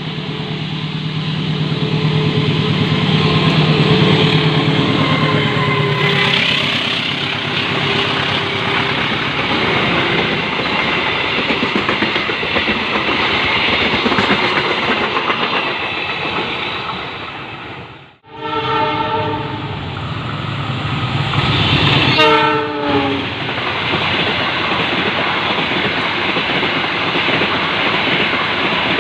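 Passing train, its wheels clattering rhythmically over the rail joints. After a break about 18 seconds in, the locomotive horn sounds twice: once briefly, then a second blast a few seconds later that falls in pitch as the train goes by.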